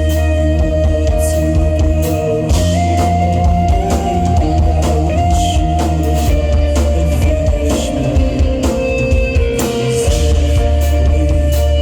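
A rock band playing live, guitars over a drum kit, with no vocals in this stretch.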